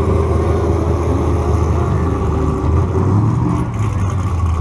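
Vehicle engine running steadily at low speed, a constant low hum with no revving.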